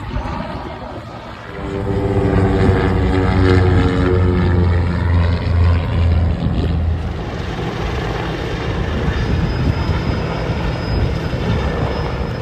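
Propeller-driven airplane flying past, a loud steady engine drone that gives way to an even rushing noise about seven seconds in.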